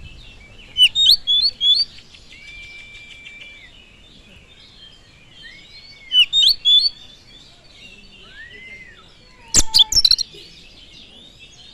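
Oriental magpie-robin (kacer) singing: three loud bursts of sharp chirps and trills, about a second in, around six seconds and near the end, separated by long, level whistled notes over a steady faint twittering.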